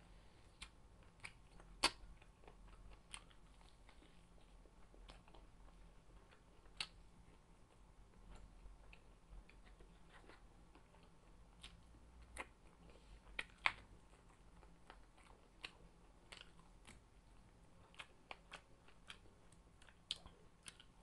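A person eating close to the microphone: soft chewing and biting, with scattered sharp clicks and crunches, the loudest about two seconds in and again about two-thirds of the way through.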